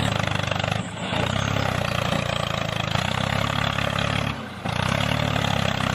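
Mini tractor engine running steadily with a rapid pulsing chug, dropping away briefly about a second in and again near the two-thirds mark.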